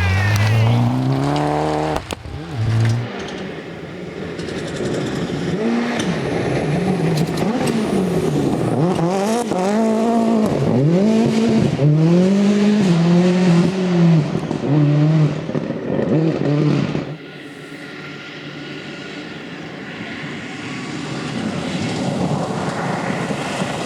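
Rally cars at full speed on a stage, engines revving hard with the pitch climbing and dropping again and again through gear changes and lifts. About seventeen seconds in the sound drops suddenly to a quieter, steady engine that slowly grows louder as a car comes closer.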